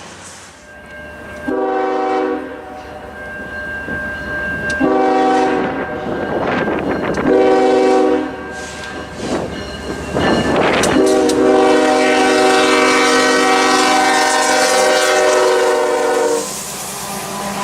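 Diesel freight locomotive's multi-note air horn sounding the grade-crossing signal: long, long, short, then a final long blast held about five seconds. Rumble and clatter of the passing train sound between the blasts.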